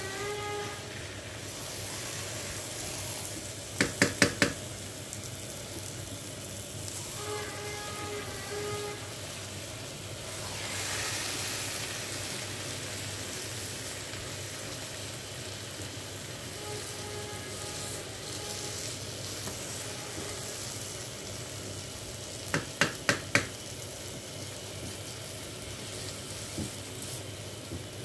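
Grated carrots for carrot halwa sizzling in a wok as they are stirred and fried down. A spoon knocks against the pan in quick runs of four or five taps, about four seconds in and again near the end.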